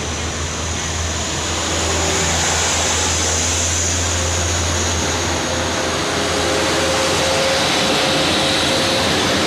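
A truck loaded with sugarcane, its engine running under load as it climbs, heard as a steady low drone over continuous road and engine noise; the low drone eases off a little after about five seconds.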